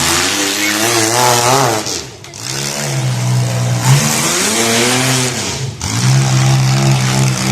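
Demolition derby car engines revving hard, rising and falling in pitch over and over, with short lulls about two seconds in and again near six seconds.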